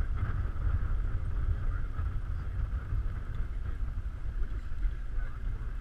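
Low, steady rumble of a vehicle running, heard from on board.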